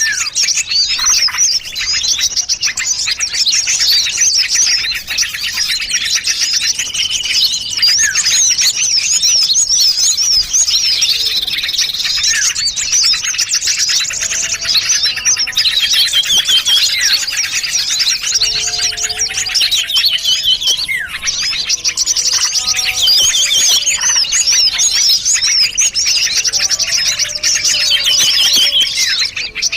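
Bird-lure recording of many small songbirds chirping and trilling at once, a dense, unbroken chorus of rapid high notes. Lower whistled notes join in about halfway through.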